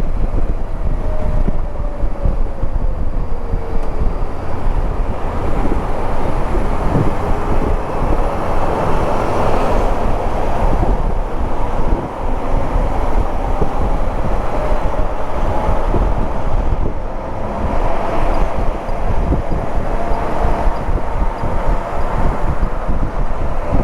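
Wind buffeting the microphone over the 2014 Honda CB500X's parallel-twin engine running on the move, its engine note sliding slightly in pitch.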